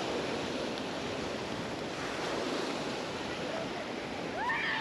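Small Mediterranean waves washing onto a sandy beach, a steady rushing surf, with a brief high-pitched call rising and falling near the end.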